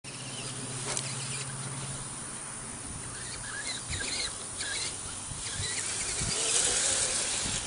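Radio-controlled HPI Wheely King 4x4 monster truck running on a dirt track: electric motor whine and tyres scrabbling over dirt, with a louder burst of throttle about six and a half seconds in.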